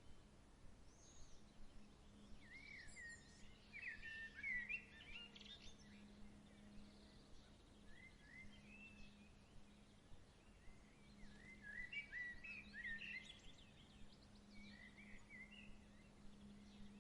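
Faint songbirds chirping in short, quick phrases, in several clusters, over a low steady hum.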